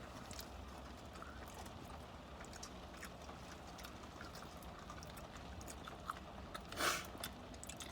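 Mouth noises of someone chewing fried chicken: small wet clicks and smacks over a low steady hum, with one brief louder noise about seven seconds in.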